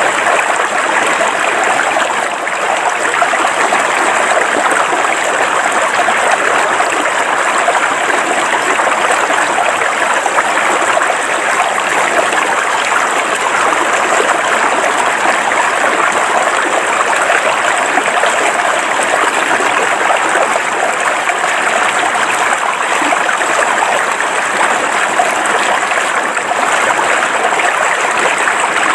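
River water flowing over rocks: a steady, even rush of small rapids.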